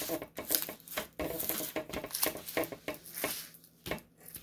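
Diamond painting kit packaging being handled by hand: plastic rustling with scattered clicks and taps.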